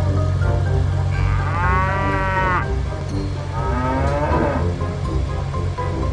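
Two long cow moos, a cartoon sound effect, over steady background music; the first about a second in, the second shorter, about a second and a half later.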